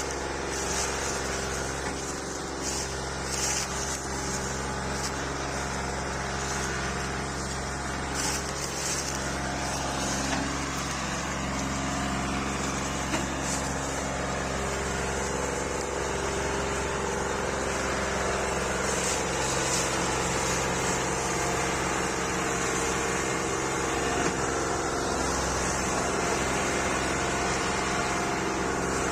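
Old Massey Ferguson tractor's diesel engine running steadily.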